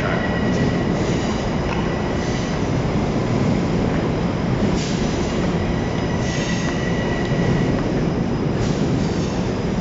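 Long Island Rail Road electric train running: a steady rumble of wheels on the rails, with a thin, steady wheel squeal that comes and goes and a few short hisses.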